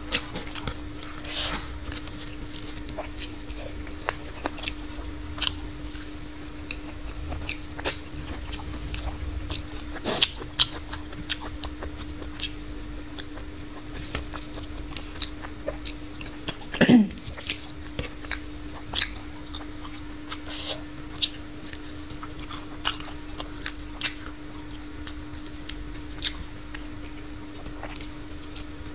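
Close-up eating sounds: chewing and biting, with many small mouth clicks, as rice, peas and a fried chicken leg are eaten by hand. A steady hum lies underneath, and there is one louder mouth sound about seventeen seconds in.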